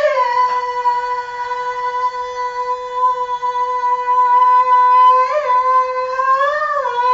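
An unaccompanied singer holding one long high sung note for about five seconds, with a slight waver about five seconds in and a short run of notes near the end.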